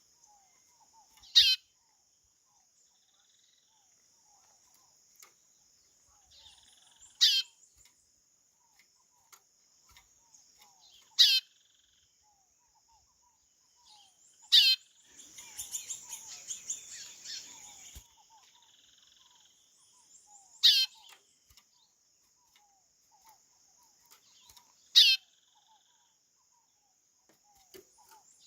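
White-bellied seedeater (chorão) giving a short, descending whistled call six times, one every four to six seconds. Between the fourth and fifth calls comes a softer burst of rapid chattering, all over a faint steady high hiss.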